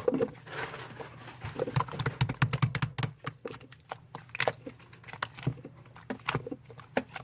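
Slime being squished and poked by hand: an irregular run of sticky clicks and small wet pops, some in quick clusters.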